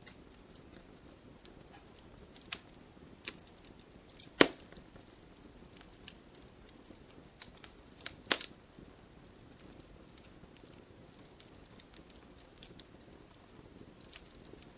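Campfire burning: wood crackling and snapping in irregular sharp pops over a soft low hiss, with two loud cracks about four and eight seconds in.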